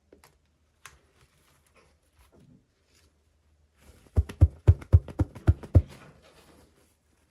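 Handling noise from unboxing small toys: a few faint clicks, then about four seconds in a quick run of about eight sharp knocks over less than two seconds, fading into light rustling.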